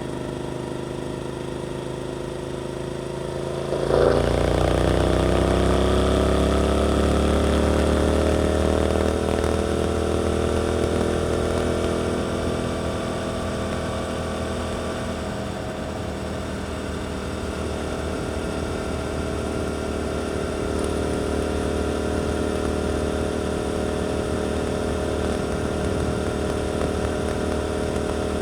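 Suzuki GSX-8S parallel-twin engine with an Arrow aftermarket exhaust, heard from on board while riding. About four seconds in it gets suddenly louder as the throttle opens, and its pitch sweeps and then settles into a steady drone.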